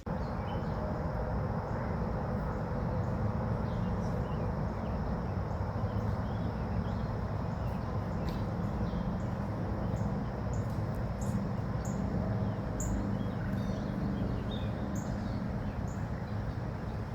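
Small birds chirping in short, scattered calls over a steady low rumbling noise that starts abruptly.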